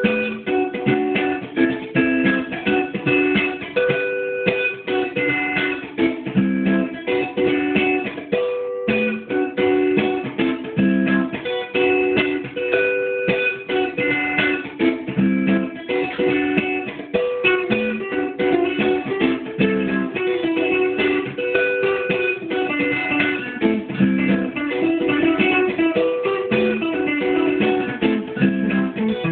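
Guitar played as a continuous run of short plucked notes, with no singing.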